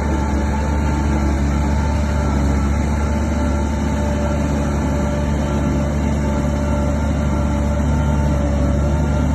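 Shantui DH17 bulldozer's diesel engine running steadily: a deep drone with a steady whine above it.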